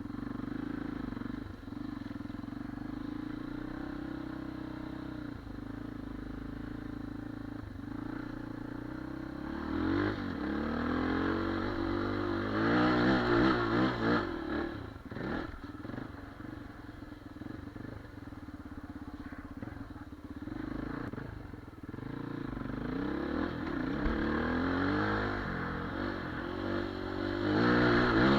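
Geon Dakar 250 Twincam enduro motorcycle engine running at a steady idle, then revved up and down in rising and falling sweeps around ten to fifteen seconds in and again near the end.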